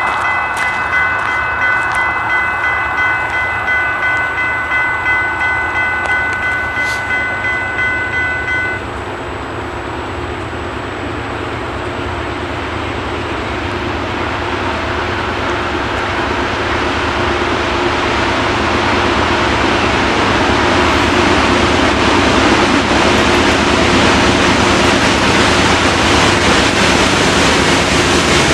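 Norfolk Southern double-stack freight train approaching behind its diesel locomotives, the rumble of engines and wheels growing steadily louder. For the first nine seconds a high ringing warning tone pulses about twice a second, then stops abruptly.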